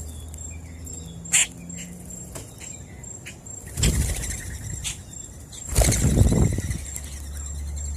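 Birds feeding on scattered birdseed: faint chirps and a few sharp clicks, then two louder bursts of wing-flapping about four and six seconds in, over a low steady hum.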